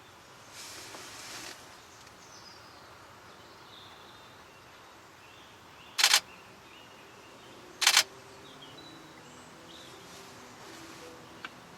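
Canon 90D DSLR shutter firing in two short bursts of a few quick frames each, about two seconds apart. Faint bird calls in the background.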